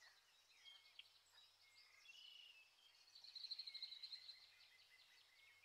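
Faint birdsong: birds chirping, with a quick trill about three seconds in.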